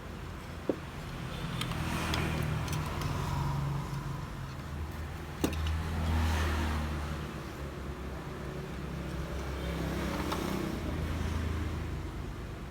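Motor vehicles passing one after another: engine sound swells and fades three times over a low steady hum. Two sharp clicks come, one about a second in and one about five and a half seconds in.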